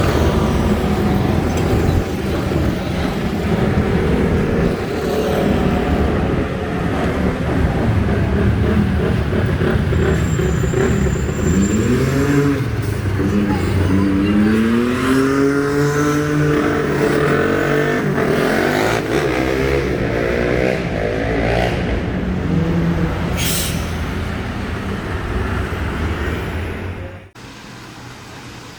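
Loud vehicle engine noise in street traffic. About halfway through, an engine note climbs and falls as a vehicle revs and accelerates past. The sound cuts off abruptly near the end.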